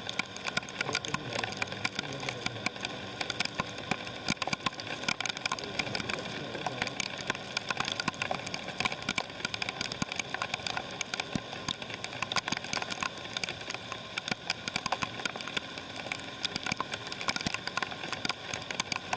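Motorcycle engine running steadily under a dense crackle of rain, many sharp drop hits in quick succession.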